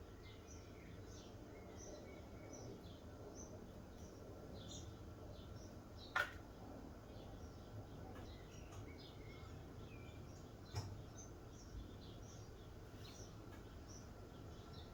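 Small birds chirping over a low background hum, short high calls repeating throughout. Two sharp clicks stand out, one about six seconds in and a fainter one near eleven seconds.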